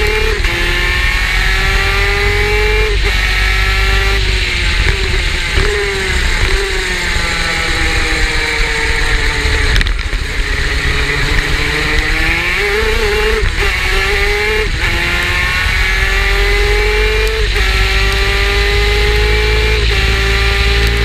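Superkart's two-stroke engine under hard acceleration, its pitch climbing and dropping sharply at each upshift, then falling away as it slows about halfway through before climbing again through several more upshifts. A steady low rumble runs underneath.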